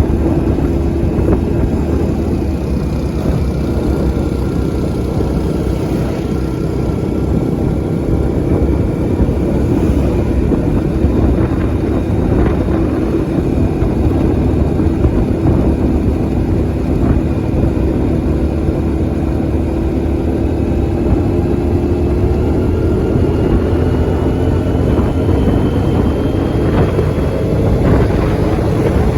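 A vehicle engine running steadily over a low rumble, its pitch drifting slowly up and down with no sharp revving.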